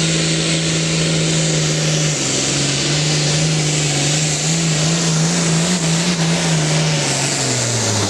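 Engine of a pulling truck or tractor running hard at high revs under load on the pull track. The pitch steps down about two seconds in, wavers up and down, then sags away near the end.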